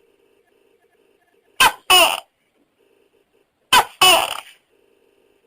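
Tokay gecko calling its two-part 'to-kek' call twice, about two seconds apart. Each call is a short clipped note followed by a longer note that falls in pitch.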